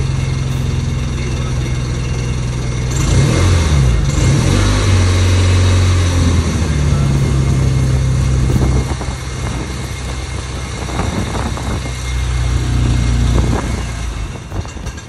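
Car engine running with a steady hum; about three seconds in its pitch wavers and drops to a lower note for a few seconds, then climbs back and holds.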